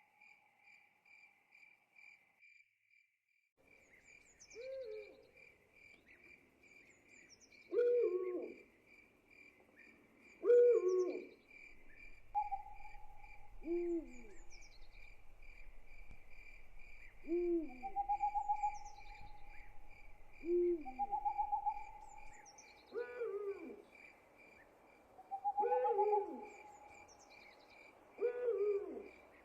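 Owl hooting in short calls every two to three seconds over a steady, pulsing chorus of crickets, with longer held whistling notes and faint high falling chirps mixed in.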